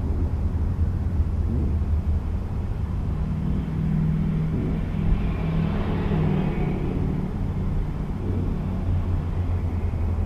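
Car engine idling with a low, steady rumble, growing louder for a few seconds in the middle.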